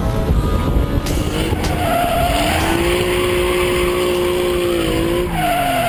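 A vehicle's engine revving hard, its note climbing, holding high, then falling away, while the tyres squeal in short stretches as it slides in a drift.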